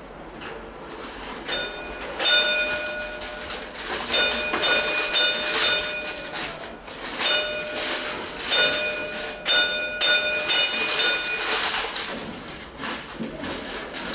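Old Melbourne W-class tram's warning gong rung repeatedly in several bursts of ringing strokes, with the clatter of the mechanism working it.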